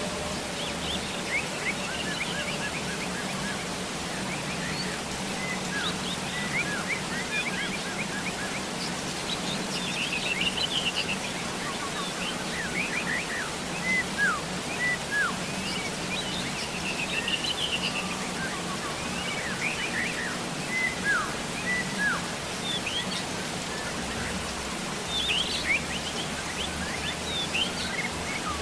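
Steady rain hiss with many birds chirping over it: short, sharp downward chirps and a few quick trills, scattered throughout.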